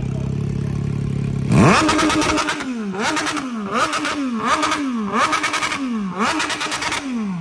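MV Agusta 800cc three-cylinder superbike idling, then revved hard about a second and a half in and blipped again about six more times. Each blip is a quick rise in pitch that falls back toward idle.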